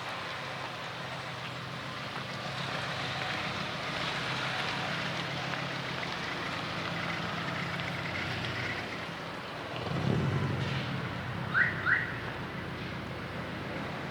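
Street traffic: a steady hum of vehicles, swelling as a vehicle passes close about ten seconds in. It is followed by two short rising chirps in quick succession.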